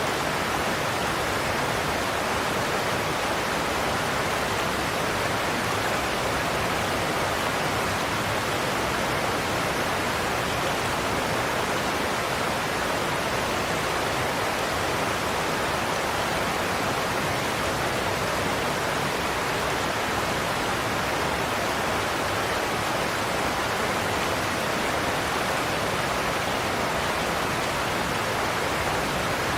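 Godafoss waterfall, a steady rush of falling water without a break.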